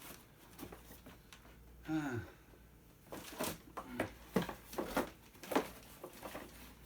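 Scattered clicks and knocks from the ride-on toy's plastic gearbox and metal axle being turned and worked by hand as they refuse to slip free. A short vocal sound falling in pitch comes about two seconds in.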